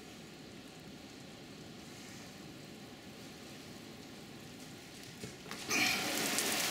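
Heavy rain falling on a wooden deck and yard, at first heard faint and muffled through a closed glass door as a steady hiss. Near the end, after a click, a door is opened and the rain turns suddenly much louder and crisper.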